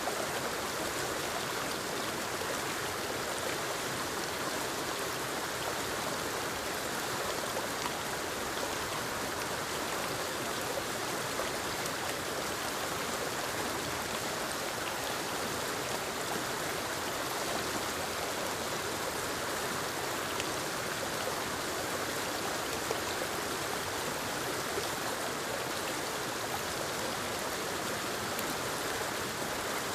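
Forest waterfall and stream: water tumbling over rocks and rushing along the creek, a steady, even rush.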